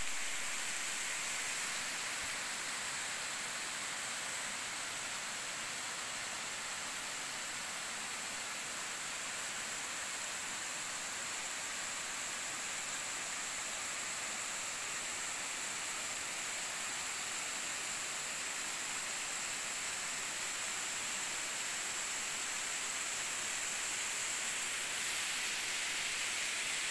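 Waterfall water falling and splashing, a steady, even rushing hiss with no breaks, growing slightly louder near the end.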